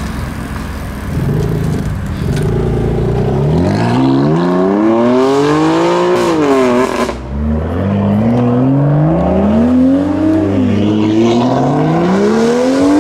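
BMW M4's twin-turbo inline-six pulling away hard: a low rumble, then revs climbing and falling off. After a sudden break, a BMW 2 Series coupe's inline-six accelerates through the gears, revs climbing, dipping at a shift, and climbing again.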